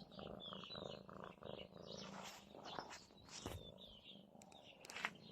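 A cat purring in a pulsing rhythm, with faint high chirps and a few sharp taps over it.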